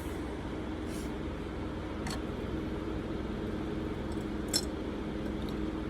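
A few light, sharp clicks of small metal parts being handled and set down, the loudest a little past the middle, over a steady low background hum.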